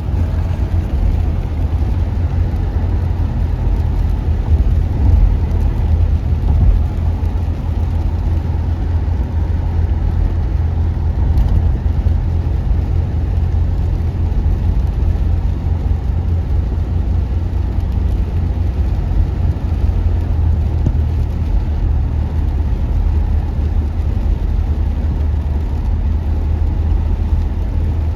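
Station wagon's engine and freshly replaced exhaust droning in the cabin while driving, a steady deep rumble with road noise.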